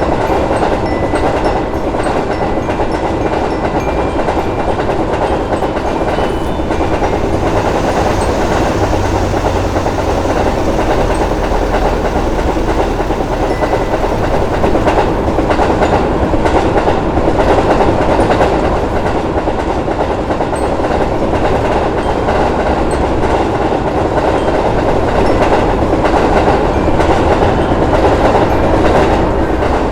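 A train running past, a loud, steady rumble of wheels on the rails.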